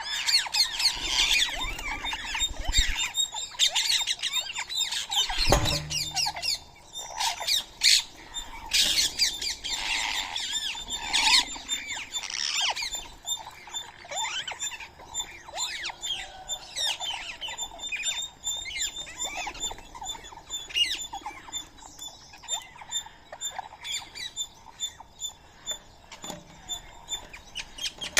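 Birds chirping and calling in many short, overlapping notes, busiest in the first half, with a few sharp clicks among them.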